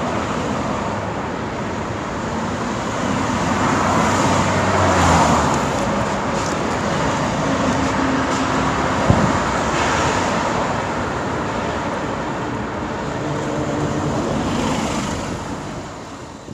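Road traffic ambience: a steady wash of passing cars and other vehicles, with a short tone and a sharp knock about halfway through, fading out at the end.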